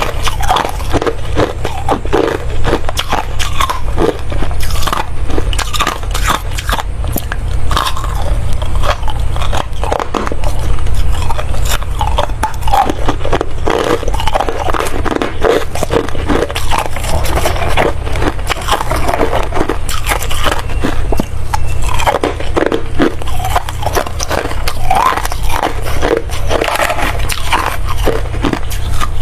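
Ice being bitten and chewed close to the microphone: continuous crunching and crackling, one bite after another.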